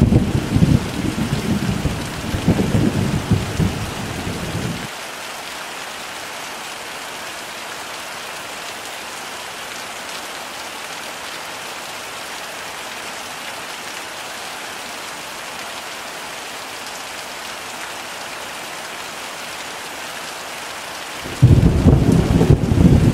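Heavy rain with rolling thunder: a deep thunder rumble over the rain stops abruptly about five seconds in, leaving a steady even hiss of heavy rain, and another rumble of thunder starts suddenly near the end.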